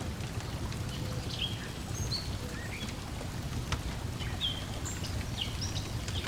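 Layered lakeside ambience: a low, steady wash of lake water, with small birds chirping in many short, quick calls over it. A few sharp crackling pops from a wood fire are scattered through.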